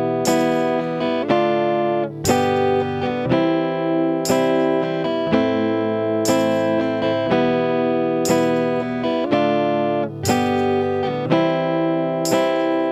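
Guitar strumming chords as an instrumental backing with no vocals, a fresh strum about once a second and each chord ringing on in between.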